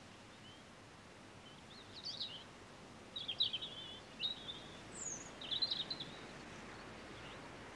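Small songbird chirping in about five short twittering phrases over a few seconds, above a faint steady hiss.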